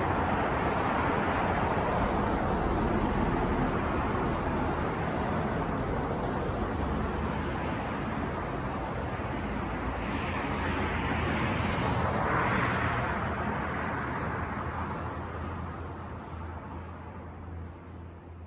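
City street traffic noise: a steady wash of passing cars under a low hum, with one vehicle swelling past about two-thirds of the way through, then the whole sound fading out near the end.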